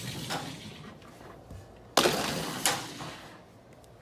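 LEGO cars colliding, plastic bricks clattering: a rattle from an earlier hit fades over the first second, then a sharp crash about two seconds in with a second knock right after, each followed by a brief clatter of pieces.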